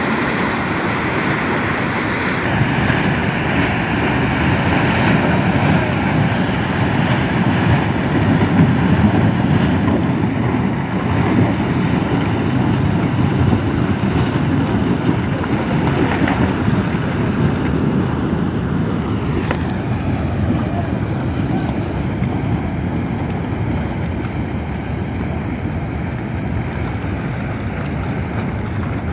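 Muddy floodwater rushing in a steady, loud torrent.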